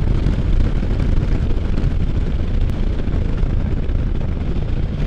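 Can-Am Spyder F3's 1330 three-cylinder engine running steadily under way at road speed, with wind rushing over the microphone.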